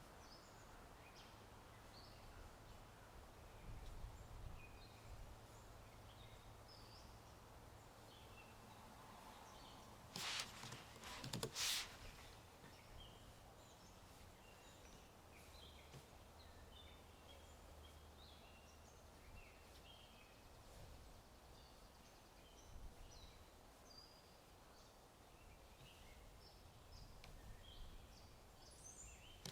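Faint birds chirping and twittering in short scattered calls over a low ambient hiss and hum. A couple of sharp clicks cut in about ten and eleven and a half seconds in.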